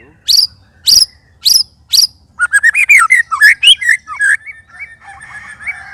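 White-rumped shama singing: four sharp, high notes about half a second apart, then a fast, loud run of varied warbling notes, easing into a softer jumble of notes near the end.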